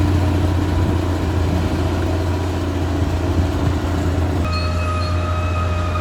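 Caterpillar D6R XL bulldozer working, its diesel engine running with a steady low drone. About four and a half seconds in, a steady high whine joins it.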